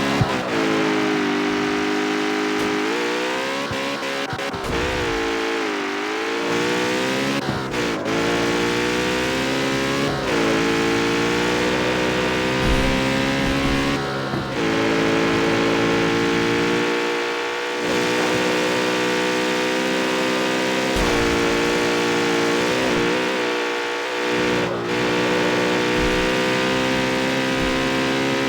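Jaguar F-Type's supercharged V8 engine pulling through the gears, its pitch climbing and then dropping at each shift, then holding a fairly steady pitch with brief lifts. Occasional sharp exhaust crackles cut through.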